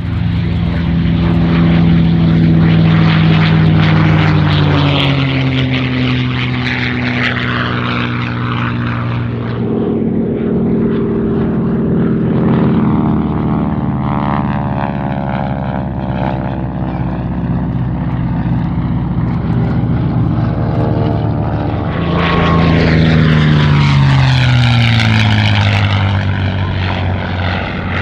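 P-51 Mustang's V12 piston engine on low flybys, with a steady propeller drone. The engine note drops in pitch as the plane passes, about five seconds in and again near the end.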